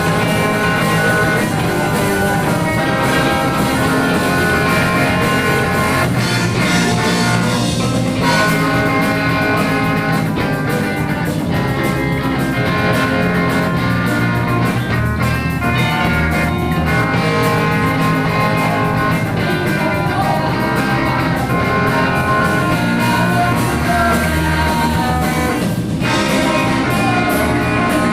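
Rock band music: guitar over bass and a drum kit, playing steadily throughout.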